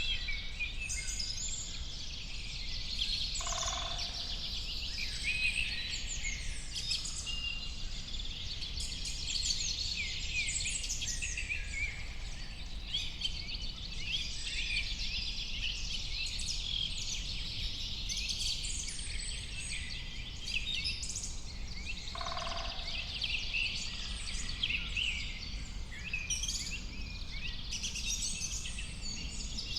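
Many wild birds singing and chirping at once in a continuous, overlapping chorus of high trills and tweets, over a steady low background rumble. Twice, about four seconds in and again past twenty seconds, a short, lower-pitched call stands out from the chorus.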